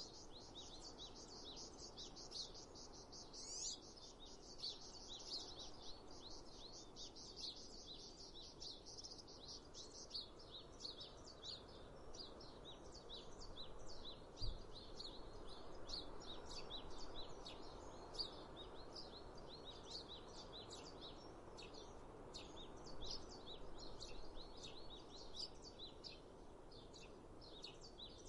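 Chorus of small songbirds chirping and twittering without pause over a soft, steady background hiss. A single brief low thump comes about halfway through.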